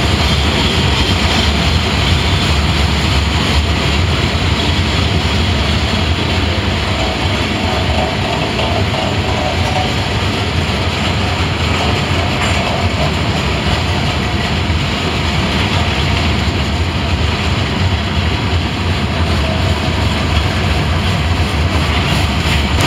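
Steel wheels of a long, heavy freight train of coal cars rolling steadily past, a continuous rumble and clatter on the rails. Partway through, a faint ringing tone rides above the rumble for a few seconds.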